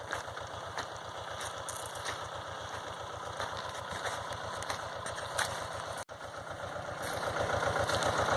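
Tractor engine running steadily, driving a power spray pump, with an even, fast firing pulse. It gets louder about seven seconds in.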